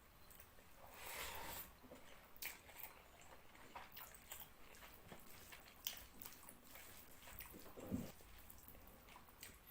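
Faint close-up eating sounds of fish curry and rice eaten by hand: wet chewing and squishing with scattered mouth clicks and smacks. A soft thump comes about eight seconds in.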